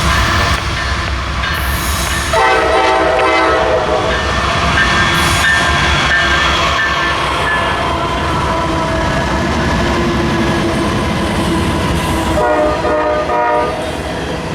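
Train running past with steady rumble and wheel noise, while its locomotive horn sounds two blasts: one about two seconds in lasting about a second and a half, and a second near the end.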